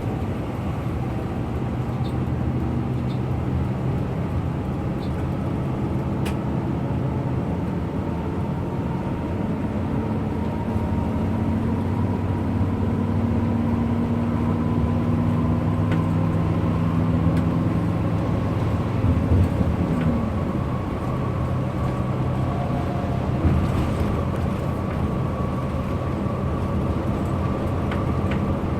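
A bus under way: steady engine drone and road noise. The engine's pitch shifts several times, with a bend about twenty seconds in.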